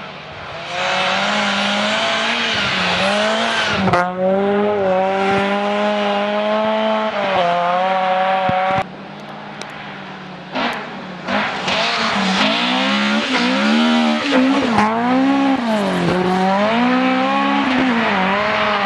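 Rally car engines driven hard, the pitch climbing through each gear and dropping at the shifts and lifts as the cars approach and pass. The sound cuts off abruptly about nine seconds in and comes back about two seconds later.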